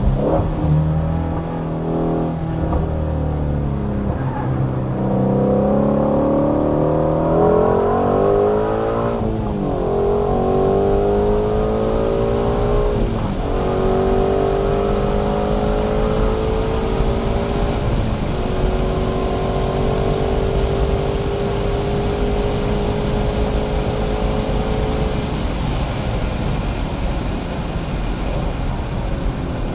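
Shelby GT350's 5.2-litre flat-plane-crank V8 accelerating hard through the gears, heard from inside the cabin. The engine note rises, drops at each of three upshifts and climbs again, then eases off near the end as the driver lifts.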